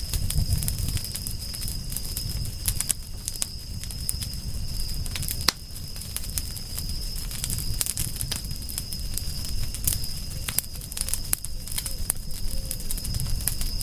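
Wood fire crackling, with frequent sharp pops and snaps and one louder pop about five and a half seconds in, over a low rumble and a steady thin high tone.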